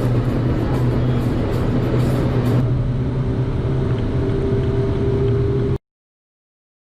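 Car engine running at a steady high pitch under way, with road and wind noise. The high hiss drops away about two and a half seconds in, and the sound cuts off abruptly near the end.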